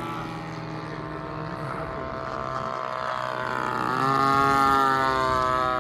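Radio-controlled model airplane's engine buzzing in flight; its pitch climbs and it grows louder about four seconds in, then eases a little near the end.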